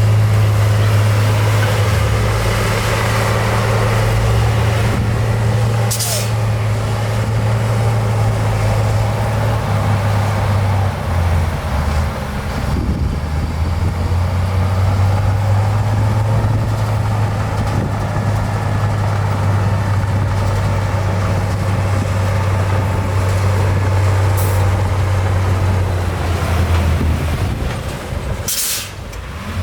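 Diesel engine of heavy earthmoving machinery running with a steady low drone that shifts slightly in pitch. Short hissing bursts come about six seconds in and twice near the end.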